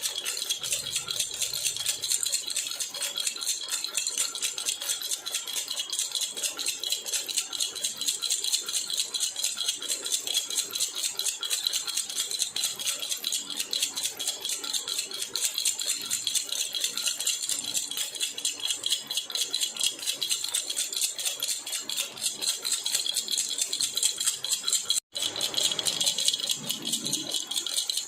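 A jhunjhuna, a baby rattle, shaken rapidly and continuously, giving a dense, bright jingling patter with a split-second break near the end.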